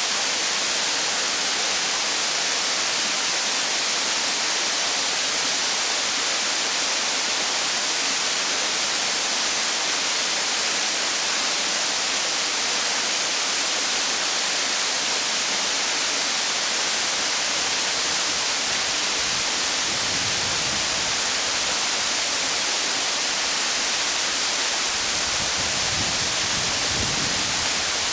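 A waterfall's falling water, a loud steady rush; a low rumble joins it near the end.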